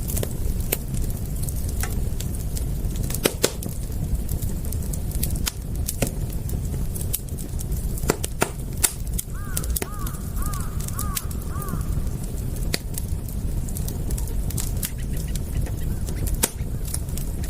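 Campfire crackling, with irregular sharp pops over a low steady rumble. About midway, a bird calls five times in quick succession.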